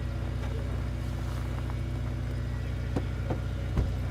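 A vehicle engine running steadily at a low, even speed, with a few short clicks near the end.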